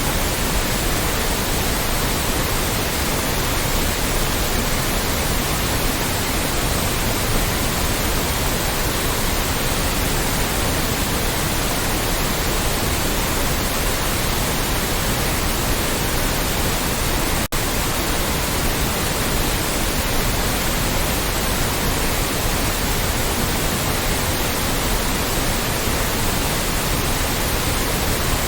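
Loud, steady white noise: an even hiss spread across all pitches, unchanging except for a split-second dip in level about two-thirds of the way through.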